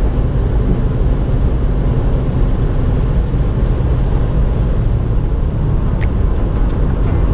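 Opel Astra 1.6 BiTurbo CDTI diesel car driving steadily: an even low rumble of engine, tyre and wind noise with no revving. Near the end, a run of sharp regular ticks starts over it.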